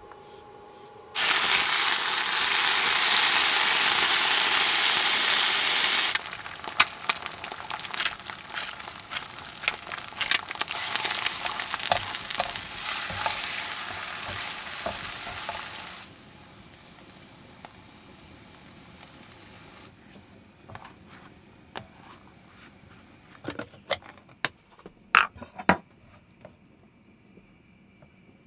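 Heavy rain hammering on a camper's roof: a loud even hiss that starts suddenly about a second in and cuts off, then a crackling patter of drops that eases off partway through and thins to scattered drips and taps.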